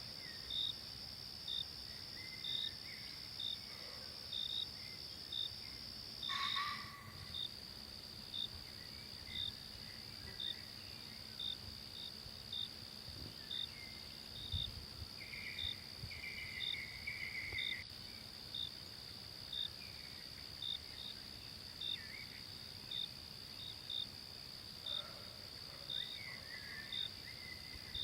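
Forest ambience of insects: a steady high drone with crickets chirping evenly, about one and a half chirps a second, and a few faint scattered calls. A brief louder rustle-like noise comes about six and a half seconds in.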